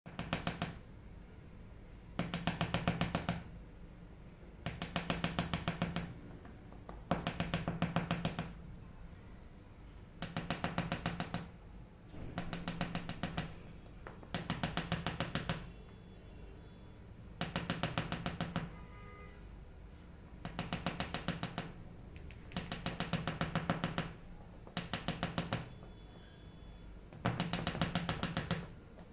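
Cockatiel tapping its beak rapidly against a hard surface, in bursts of fast knocks about a second long, repeated roughly every two seconds.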